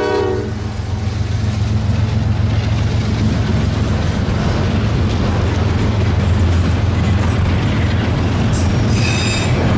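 Freight train of autorack cars rolling past, a loud steady rumble. The locomotive horn's last chord cuts off about half a second in. A brief high-pitched ringing comes through near the end.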